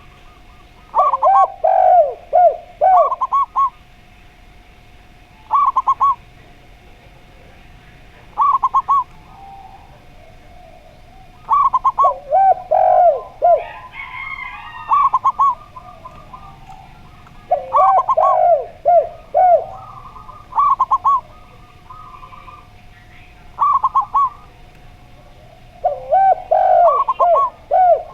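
Zebra dove and spotted dove cooing, their phrases of rolling, repeated coo notes coming in bouts every few seconds, one bird's higher notes trading with the other's lower ones.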